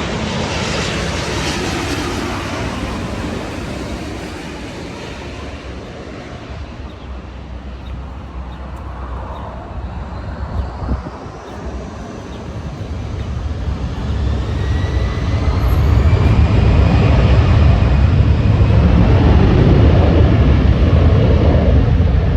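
Jet airliner engines running, growing louder from about the middle and staying loud near the end, with a high whine that slides in pitch.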